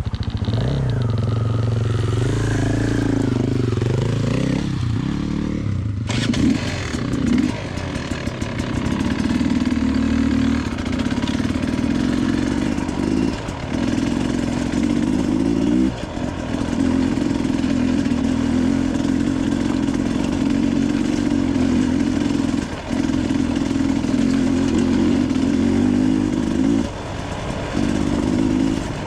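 Dirt bike engine running while riding a trail: its note shifts for the first few seconds, then holds a steady pull under throttle with brief dips, like throttle lifts or gear changes, several times.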